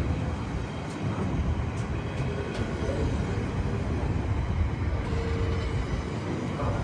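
Train running on the line: a steady low rumble with a few faint clicks.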